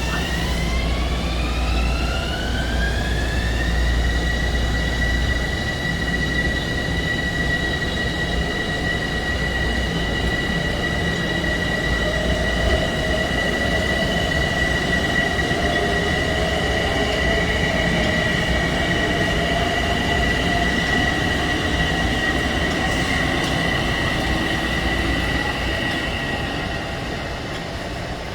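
Bombardier M7 electric train accelerating: the whine of its traction motors rises in pitch over the first few seconds, then holds a steady high tone over the low rumble of the wheels on the rails, easing off near the end as the train draws away.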